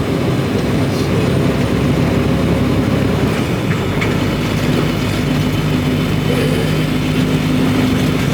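Semi truck cab noise while driving: a steady rumble of the diesel engine and road noise. A steady engine drone comes up more strongly about halfway through.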